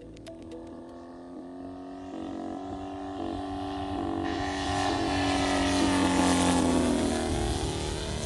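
Engine of a 40% scale Extra 300 RC aerobatic plane in flight, growing louder as it approaches, then dropping in pitch about seven seconds in as it passes by.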